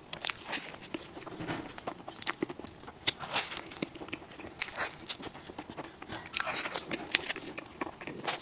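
Close-miked chewing of a soft pink filled pastry: wet mouth sounds with many short, irregular smacks and clicks.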